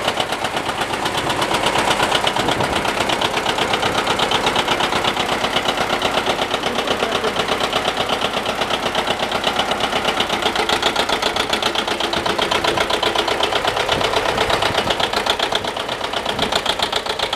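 A 1957 John Deere 720 Diesel tractor's two-cylinder diesel engine running steadily with an even firing beat.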